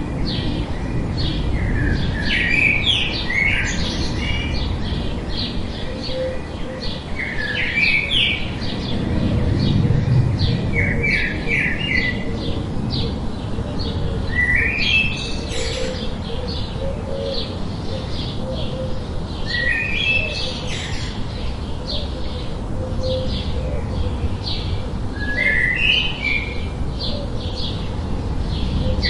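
Small birds chirping in clusters of quick notes every few seconds, over a steady hiss of white noise.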